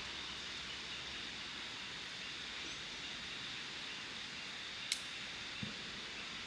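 Steady outdoor background hiss, with one sharp click about five seconds in and a soft low knock just after.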